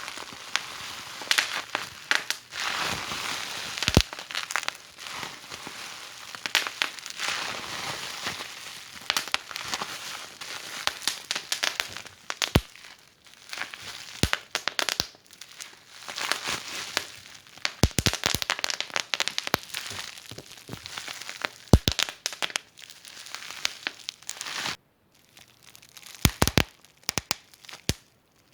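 Wood fire in a fireplace crackling: a steady hiss full of small snaps, with louder sharp pops every few seconds. The sound drops out briefly twice near the end.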